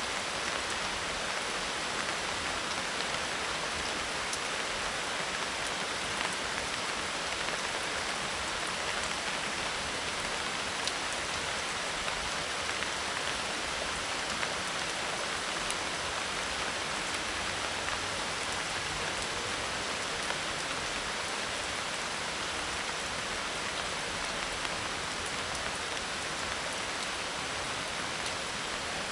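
Steady medium tropical rain falling on a roof of dried leaves: an even hiss with occasional single drops ticking through it.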